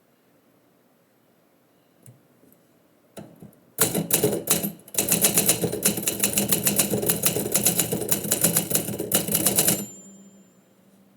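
Typewriter keys struck in a fast run lasting about six seconds, preceded by a couple of single clicks and broken by a short pause about a second into the run.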